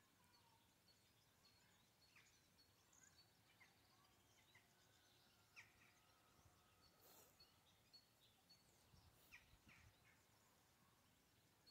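Near silence with faint, scattered short bird calls, a few high chirps spread irregularly over a quiet background hiss.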